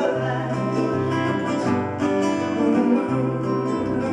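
Live acoustic folk song: acoustic guitar strummed and picked through a chord change, just after a sung word held at the start.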